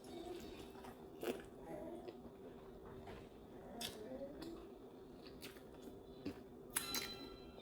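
A person eating, chewing food with occasional crunches and a few sharp clicks.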